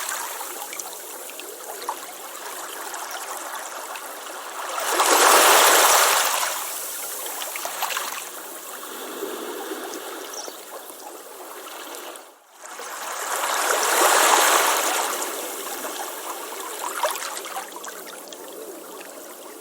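Ocean waves washing onto a beach, a steady wash of surf swelling twice into louder breaking waves, about five and fourteen seconds in. A brief dropout comes just before the second swell.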